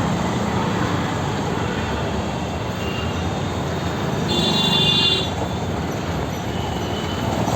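Busy street traffic: a steady wash of vehicle noise, with a high-pitched tone lasting about a second, about four seconds in.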